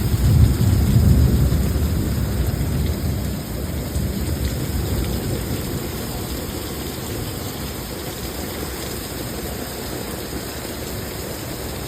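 Heavy thunderstorm rain pouring down steadily. A low rumble of thunder is strongest at first and fades away over the first few seconds.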